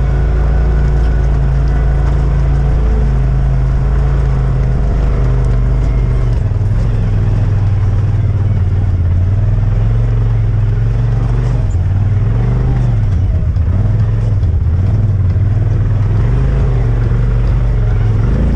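Side-by-side UTV engine running at low speed, a steady drone whose pitch dips and rises with the throttle in the second half.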